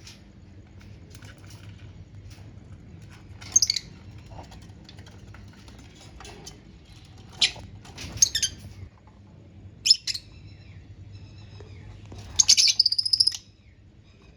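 Lovebirds giving short, shrill chirps every few seconds, with a longer run of chirping near the end.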